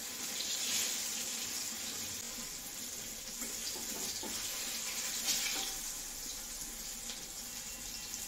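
Besan-coated eggplant slices frying in hot mustard oil in a wok, a steady sizzle, with a few light scrapes and taps of a metal spatula in the pan partway through.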